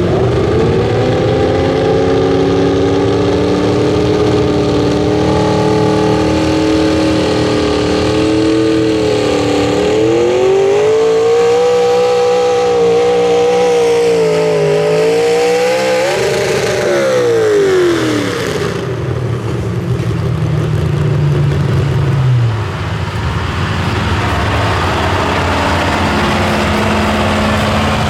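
Pro Stock mini truck engine running at full throttle under load as the truck pulls the sled, its pitch holding high and wavering with a rise near the middle. About sixteen seconds in the revs fall off sharply as the throttle is lifted, and the engine runs on at a much lower pitch.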